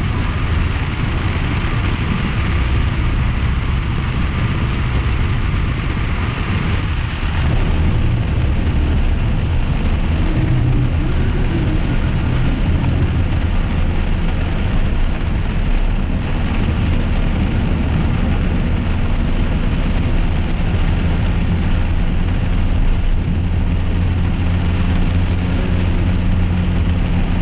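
Car cabin while driving in rain: steady low engine and road rumble with rain noise on the car, and a steady low engine note from about ten seconds in.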